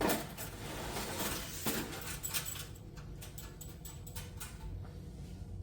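Rustling and clicking as parts and packaging are handled: a burst of rustle at the start, another about two seconds in, then a string of light clicks and taps.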